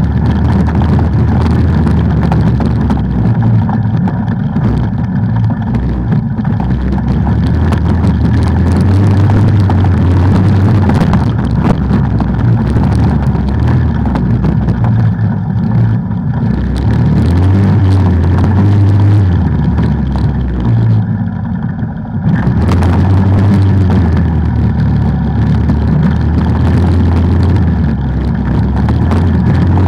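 Off-road vehicle engine running on a trail under varying throttle, its pitch rising and falling; it eases off briefly about two thirds of the way through, then picks up again.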